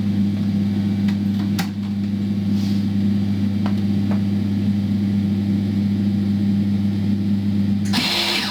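MIG welder humming steadily, with a few light clicks. A short burst of hiss comes near the end. No weld is struck because the earth clamp was never connected.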